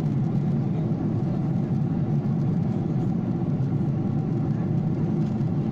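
Steady drone of an airliner's engines and rushing air, heard from inside the passenger cabin.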